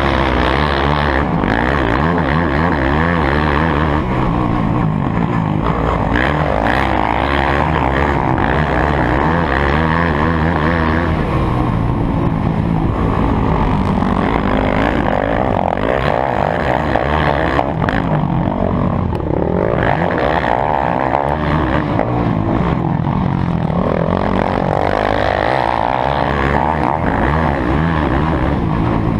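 Several motocross motorcycle engines running at once, revving up and down and overlapping.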